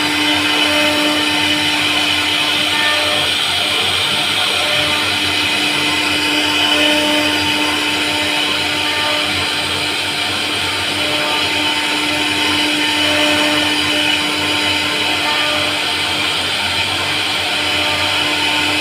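CNC router spindle running steadily as it carves a wooden bed panel: a constant hum and whine over a steady hiss, without a break.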